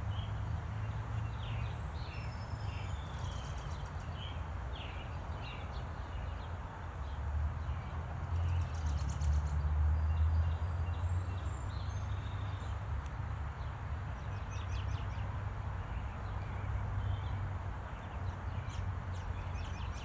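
Small songbirds chirping in short, scattered calls, over a steady low rumble that swells for a few seconds midway.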